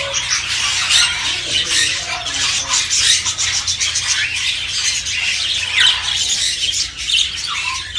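A crowd of parrots squawking and chattering loudly and continuously, many harsh, shrill calls overlapping with no pause.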